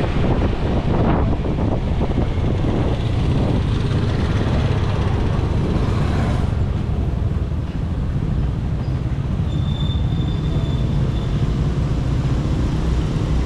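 Motorcycle taxi engine running steadily under way, with wind and road noise rushing past, rougher for the first few seconds. A faint high tone sounds briefly near the end.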